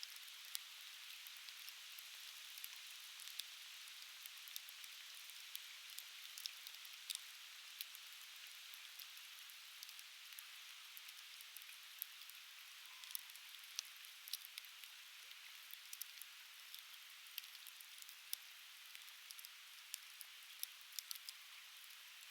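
Conifer firewood crackling in an open fire: many sharp, irregular pops over a steady, faint river-like hiss.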